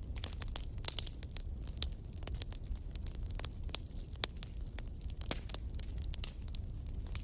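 Fire in a fireplace crackling: many irregular sharp pops and snaps over a steady low rumble.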